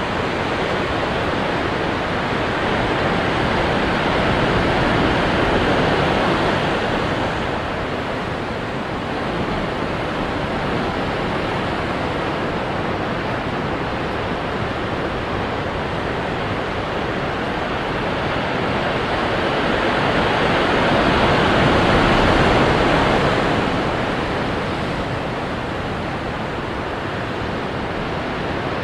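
Ocean waves breaking on rocks: a continuous wash of surf that swells twice, about five seconds in and again around twenty-two seconds in, then eases back.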